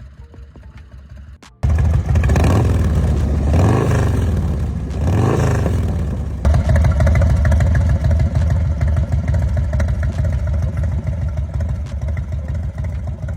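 V-twin motorcycle engine, the 111 cubic inch S&S V-twin of an American IronHorse Legend chopper, cutting in loud about a second and a half in. It is revved twice, then after an abrupt change runs on steadily.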